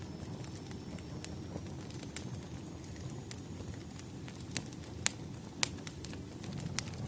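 Wood fire crackling: irregular sharp pops and snaps over a steady low rumble of burning logs, with two louder pops a little after the middle.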